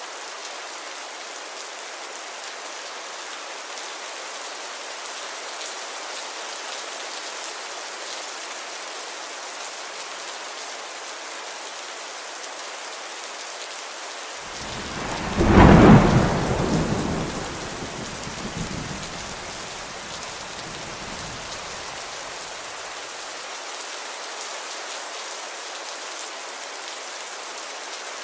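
Steady rainfall hiss, with a clap of thunder about halfway through that rolls on as a fading rumble for several seconds.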